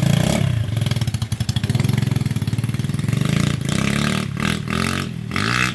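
Dirt bike engine running close by, then revved up and down several times in the second half.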